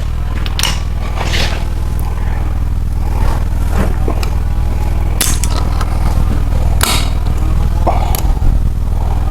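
Scattered metal scrapes and clinks of tools on a Chevy 350 small-block as its crankshaft is turned another quarter turn for setting the rockers. A steady low rumble sits underneath.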